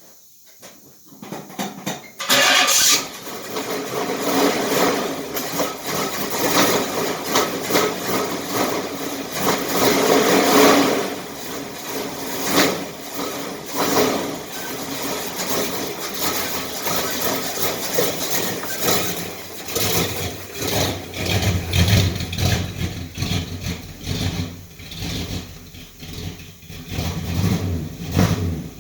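Cold start of a car engine that is not yet tuned up: it cranks and catches about two seconds in, then runs with its level repeatedly swelling and dipping. It cuts off at the end.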